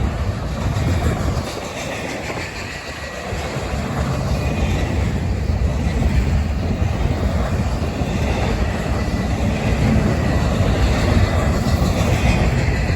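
A freight train rolling past, a steady loud rumble of railcars on the rails.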